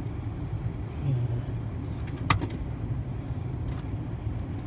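Car engine running, heard from inside the cabin as a steady low rumble, with one sharp click a little over two seconds in.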